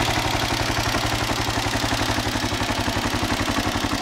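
1995 Kawasaki KLR650's single-cylinder four-stroke engine idling steadily, with an even, rapid beat.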